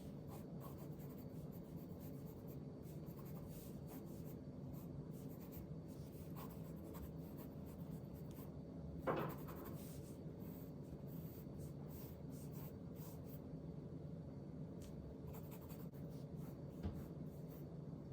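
Pen scratching on paper in faint, irregular strokes over a steady low room hum, with one louder scratch about halfway through.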